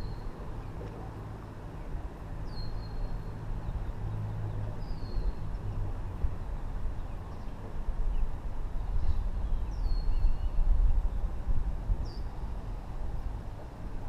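A bird calling over and over: a short, high whistle that slides down, repeated about every two to three seconds, over a steady low rumble.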